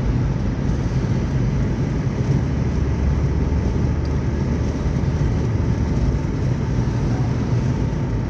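Steady road and engine noise inside a moving car's cabin: a low rumble with a hiss above it, unchanging throughout.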